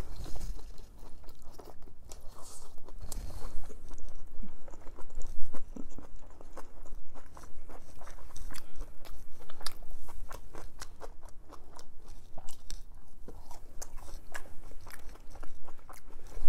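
A person chewing a mouthful of chicken Philly cheesesteak with its half-cooked bell pepper and onion still crunchy, giving many small irregular crunches and clicks.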